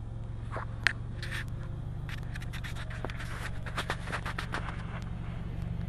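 Scion FR-S's 2.0-litre flat-four boxer engine running steadily with a low hum, heard from inside the cabin. Scattered scrapes and clicks from the handheld camera being moved about; the sharpest click comes about a second in.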